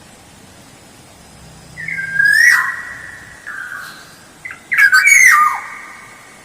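Kepodang (black-naped oriole) calling: a loud fluting whistle about two seconds in, a fainter short note after it, then a second loud call about five seconds in, each ending in quick downward slurs.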